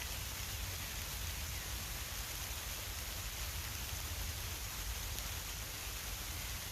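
Steady rain falling in woodland, an even hiss of drops on leaves and surfaces.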